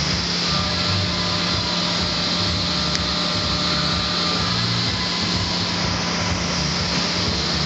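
SEIGER RECORD LC 1400 CNC facing lathe running: a steady, even machine noise with a low hum and a faint high whine in the first half.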